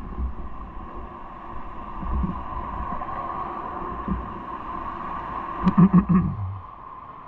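Bike ride noise: low road rumble under a steady hum. A quick run of rattling knocks comes about six seconds in and is the loudest part.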